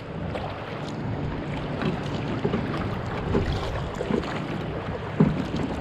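Wind buffeting the microphone over choppy water lapping against a kayak, a steady rushing noise with small splashes scattered through it.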